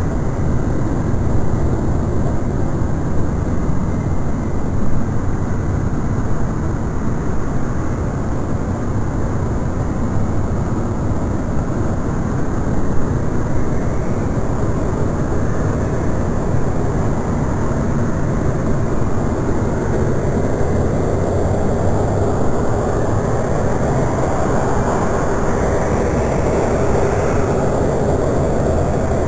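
A jet airliner's engines at takeoff power, heard as a steady loud noise that grows stronger in the middle range over the last several seconds.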